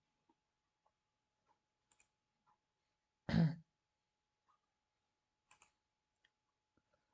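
A person clears their throat once, briefly, about three seconds in, among faint scattered clicks.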